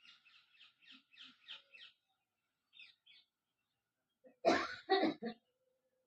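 Parrot chirping in a quick series of soft short notes, then three short, much louder calls near the end.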